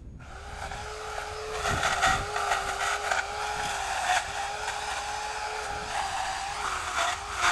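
Chainsaw running at high speed, starting abruptly just after the start, its steady pitch dipping briefly now and then as it loads.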